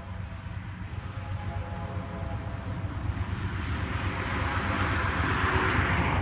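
Distant approaching freight train led by diesel locomotives: a low, steady rumble growing louder, with a rushing hiss that swells over the last two seconds.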